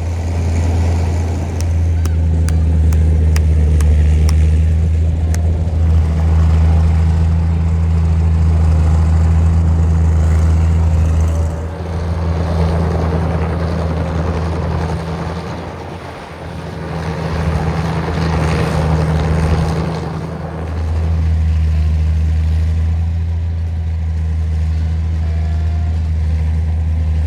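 Tractor engine running steadily with a deep low hum while plowing a flooded rice paddy. The engine eases off briefly about halfway through, then picks up again.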